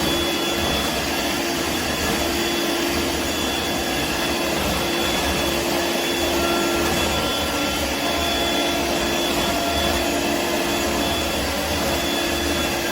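Dirt Devil Vibe corded stick vacuum running steadily, a constant rush of air with a steady motor whine over it.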